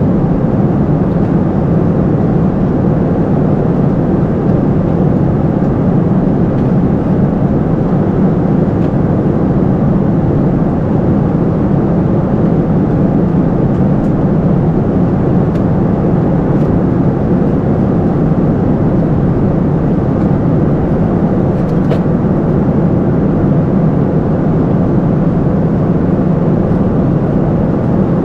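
Steady cabin noise of a Boeing 747-400 in flight, heard inside the upper-deck cabin: an even, unbroken rush of airflow and a low engine drone.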